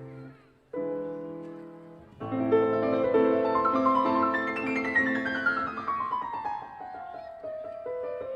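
Background piano music: a chord after a brief pause, then a phrase that ends in a long falling run of quick notes.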